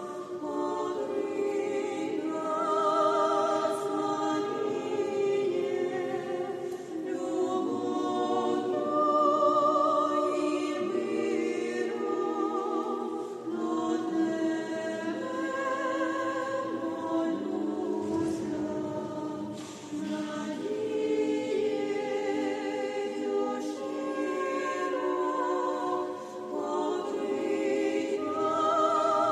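Church choir singing a sacred hymn in several-part harmony, with long held chords and brief pauses between phrases.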